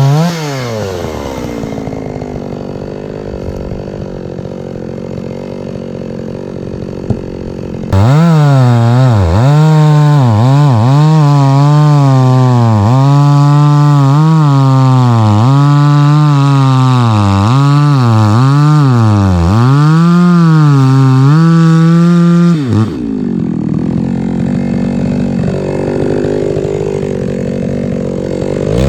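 Chainsaw cutting firewood logs. It drops back to idle at the start, jumps to full throttle about eight seconds in, and runs loudly for about fifteen seconds with its pitch dipping again and again as the chain bogs in the wood. It falls back to idle and revs up again at the very end.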